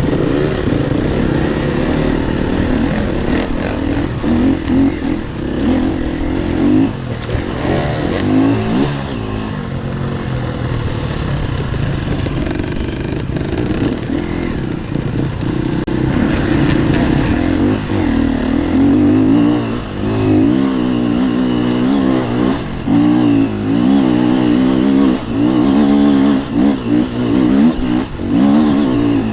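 Enduro dirt bike engine revving up and down without a break as the rider works the throttle along the trail. The revs rise and fall faster near the end.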